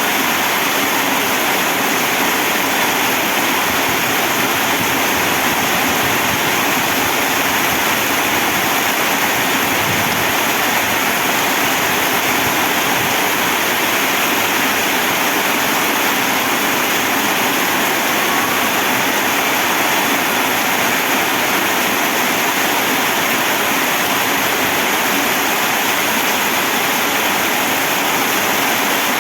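Heavy rain pouring down, a loud, steady, even hiss that does not let up.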